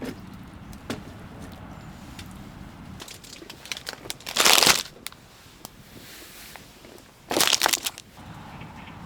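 Two short bursts of crinkling, crunching noise, with a few light clicks and handling knocks before them.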